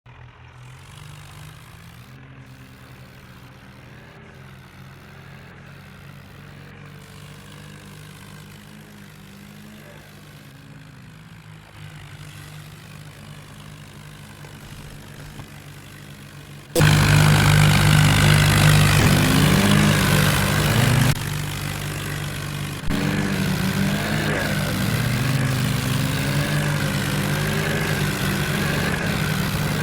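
Diesel tractor engines running steadily under load, with a wavering higher tone over them. The sound gets much louder suddenly about 17 seconds in.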